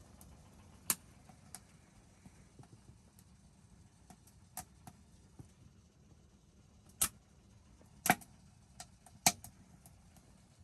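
Burning firewood crackling: scattered sharp pops and snaps at irregular intervals, a few louder ones in the second half.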